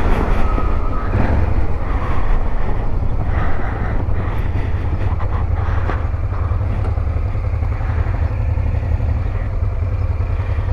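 Honda Transalp 650 motorcycle riding along, its engine running under a steady low rumble of wind on the microphone, with a few knocks in the first few seconds.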